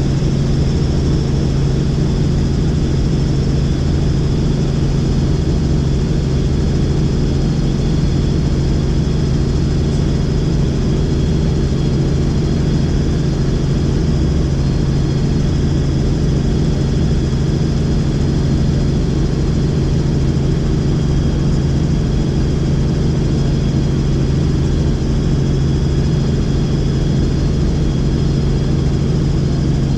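Helicopter in level flight: the steady drone of the rotor and engine, with a faint high whine held steady above it.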